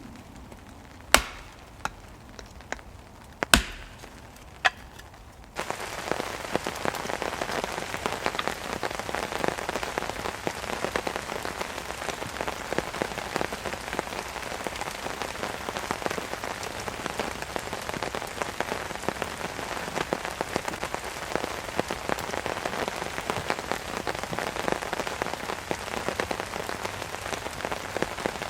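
Heavy rain pattering on a tarp overhead, dense and steady. For the first five seconds or so it is quieter, with a few sharp single taps, then it turns suddenly louder and stays so.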